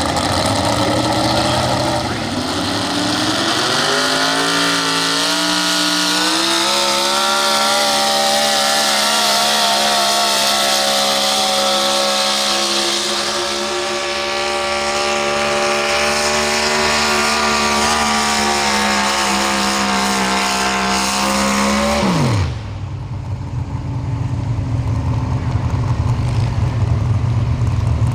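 Pro stock 4x4 pulling truck engine revving up over the first few seconds and held at high, steady revs for about twenty seconds under the load of the pull, then dropping sharply to a low rumble near the end as the throttle comes off.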